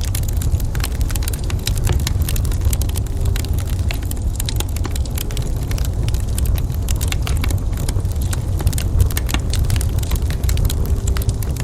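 Wood fire crackling in a fireplace: many quick small pops and snaps, thick and uneven, over a steady low rumble.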